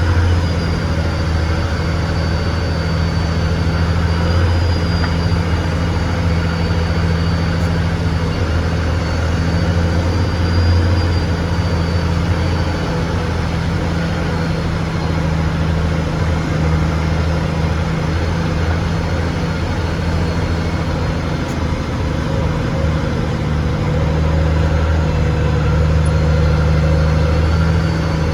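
Heavy truck engine running at a steady speed, a low, even drone with a faint high whine above it.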